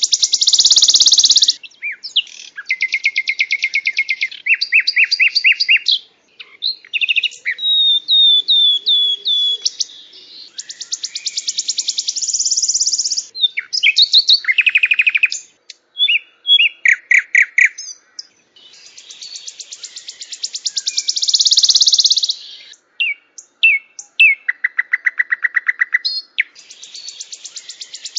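A small songbird singing a long run of varied phrases: fast trills, rolling buzzy runs and clear whistled notes, with short pauses between phrases.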